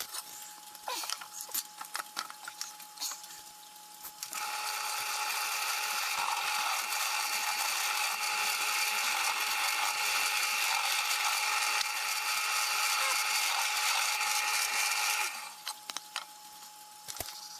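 Drill press running, with handling clicks and taps, then a steady, louder sound for about eleven seconds from about four seconds in as a small bit bores into wood, and more clicks after it stops.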